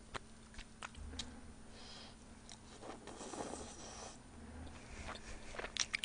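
Faint, close-miked chewing and small wet mouth clicks of a person eating braised chicken and vegetables.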